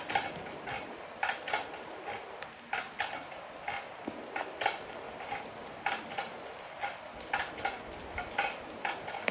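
Steady metallic ratchet clicking, about two clicks a second, as a hand-operated winch or lever hoist is worked to pull on a fallen tree.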